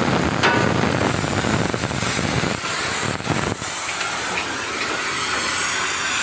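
Steady loud hissing noise. It has a heavy low rumble and a couple of sharp knocks through the first half, then thins to mostly high hiss for the rest.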